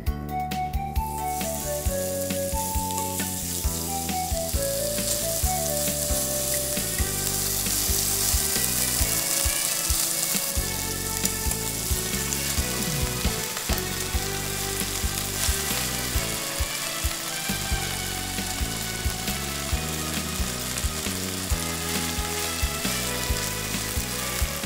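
Thinly sliced pork frying in hot sesame oil in a frying pan: a steady sizzle that starts about a second in, with background music underneath.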